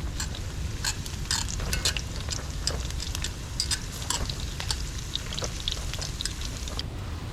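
Camp cooking: irregular light clicks and crackles, like food frying and utensils moving, over a steady low rumble of wind.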